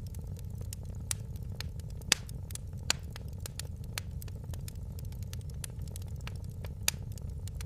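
Wood fire in a fireplace crackling, with a steady low rumble and irregular sharp pops several times a second. A few louder pops come about two and three seconds in and again near the end.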